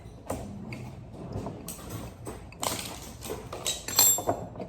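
Scattered knocks and clicks of things being handled and set down, with a short faint voice about four seconds in.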